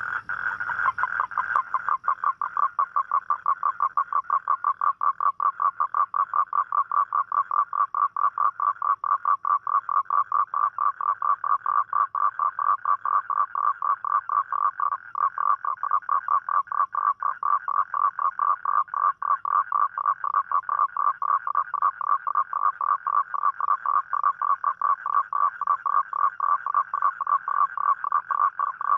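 Toad calling: one long, unbroken trill of rapid, evenly spaced pulses, a little higher in pitch for the first second or two before it settles.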